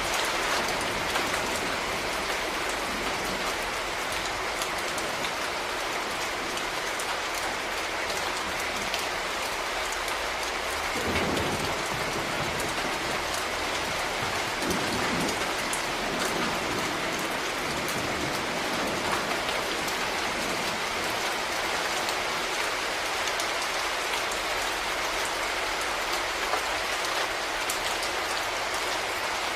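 Steady rain falling and pattering on a surface. A short low rumble comes about eleven seconds in and another about fifteen seconds in.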